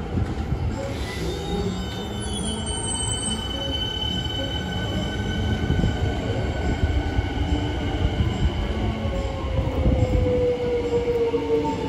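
Electric suburban train running through a station: steady wheel rumble on the rails with thin high-pitched whines over it. A whine falls slowly in pitch near the end as the train's sound swells.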